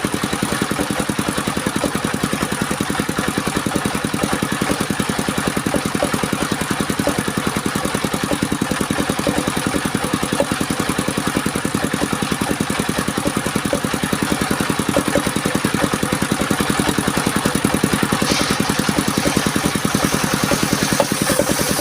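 Engine of a portable circular sawmill running steadily, a fast, even putter that holds at one speed throughout.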